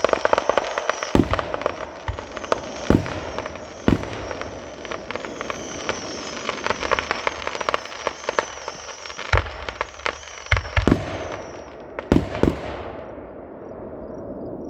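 Aerial fireworks going off: a dense, continuous crackle with loud sharp bangs every second or two. The barrage thins out and fades into a dying hiss about two seconds before the end.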